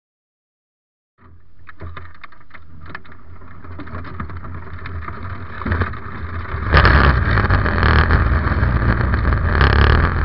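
Silence for about the first second, then the 1926 Salmson twin-cam race car's engine running, heard from on board, with some sharp clicks early and a clear step up in loudness about seven seconds in.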